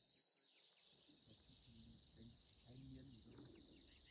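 Insects, crickets or cicadas, chirping in a steady, rapid pulsing high-pitched trill.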